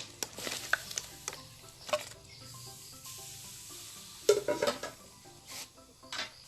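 A utensil stirring and scraping food in a hot pan, with sizzling. It comes as a series of short clatters, loudest in a cluster about four seconds in.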